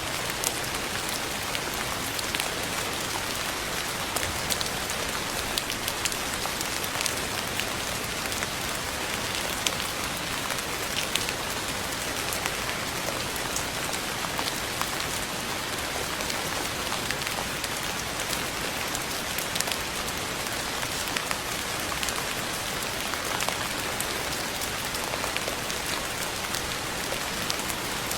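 Steady rain falling, an even hiss with many close, sharp drop taps on a hard surface.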